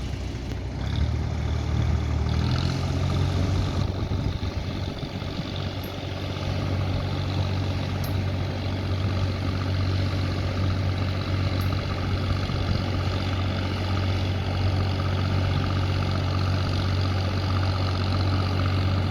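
Tractor engine running at a steady speed, its note shifting once about two seconds in and then holding even.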